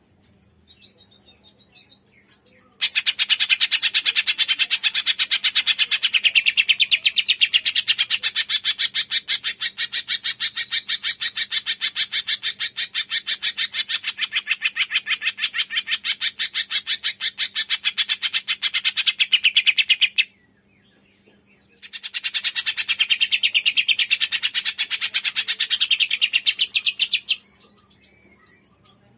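Cucak ijo (green leafbird) singing a long, loud run of rapid repeated high notes, breaking off for a moment and starting again in a shorter second run, with faint scattered chirps before and after. This is the kind of aggressive, continuous song that bird-keepers play as a 'tembakan' to provoke another cucak ijo into singing.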